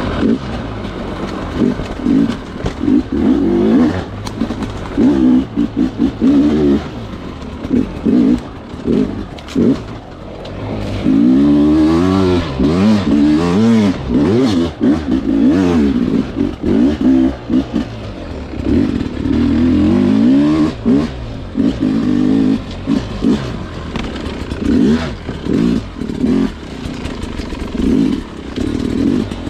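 Sherco two-stroke dirt bike engine worked hard on a technical trail: repeated short throttle blips, its pitch rising and falling again and again, with a longer pull that climbs and drops about halfway through.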